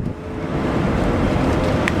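Renault Twizy electric car driving, a steady rumble of road and wind noise. A short sharp click comes near the end.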